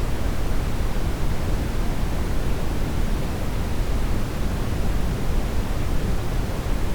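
Steady brown noise: an even, unchanging deep rushing hiss, heaviest in the bass and thinning toward the highs.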